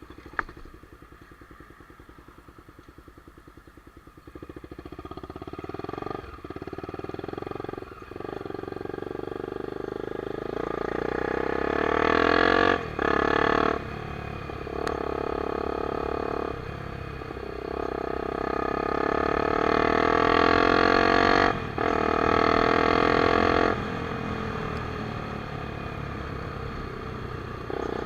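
Honda CBX 250 Twister's single-cylinder engine running low at first, then accelerating hard through the gears. The revs climb and cut off sharply at each of several gear changes, then climb again. There is a sharp click just at the start.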